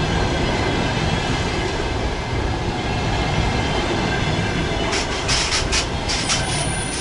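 Passenger coaches of a train braking to a stop, running with a steady low rumble. About five seconds in, a quick series of short, sharp air hisses starts: the last coach's air distributor working as the brakes apply, an unusual sound for it.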